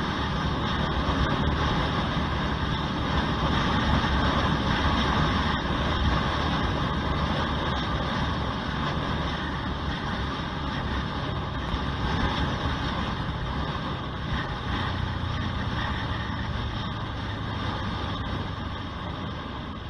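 Honda CBR125R's single-cylinder 125 cc four-stroke engine and exhaust running steadily while the bike is ridden, heard through an action camera's microphone together with rushing air noise. The sound eases slightly over the last few seconds.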